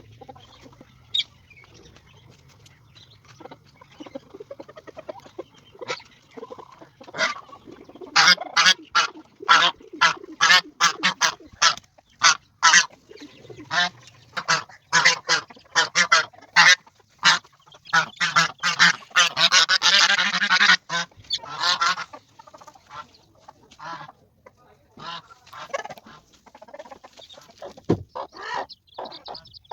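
Poultry calling: a few scattered short calls at first, then from about 8 s a dense run of many short, harsh calls, busiest around 20 s and thinning out after about 22 s.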